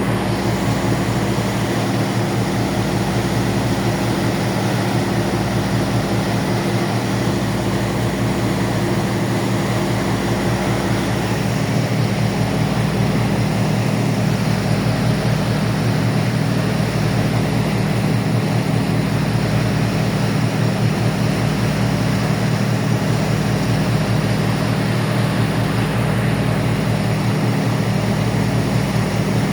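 Ferry's engines giving a steady, low drone with a wash of noise over it.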